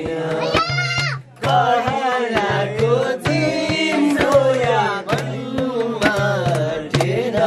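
A voice singing a Nepali song, accompanied by a hand drum beating a steady stream of sharp strokes.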